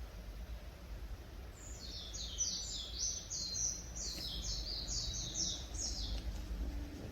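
A songbird singing a fast string of short, high, sliding notes for about four and a half seconds, starting about a second and a half in, over a steady low background rumble.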